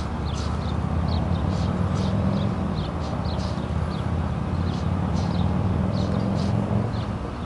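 Small birds chirping over and over, a few short calls every second, over a loud, steady low rumble.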